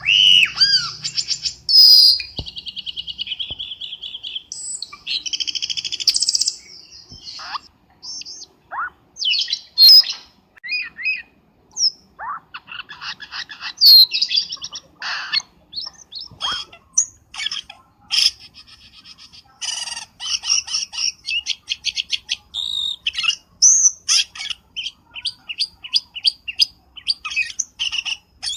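Cucak keling bird calling, a lure-call recording: a varied, ongoing run of sharp chirps, whistled glides and fast rattling trills with short pauses between phrases.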